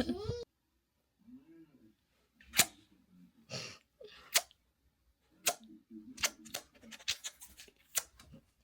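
A series of short sharp clicks and smacks, about eight at irregular intervals, with a few soft low voice sounds between them.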